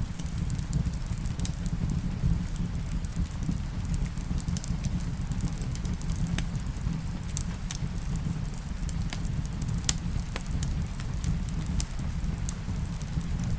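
Wood fire crackling in a fireplace, irregular sharp pops and ticks over a steady low rumble, with rain likely mixed into the ambience bed.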